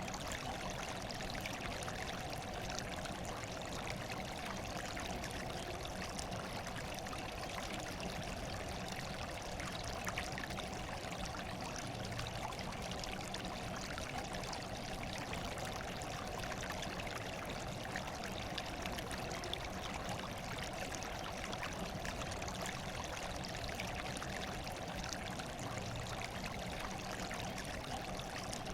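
Steady trickling, running water with no breaks or changes.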